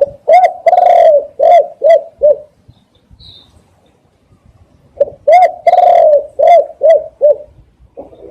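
Spotted dove cooing loudly: two phrases, each a quick string of about five or six short coos with the second coo drawn out, the second phrase about five seconds after the first.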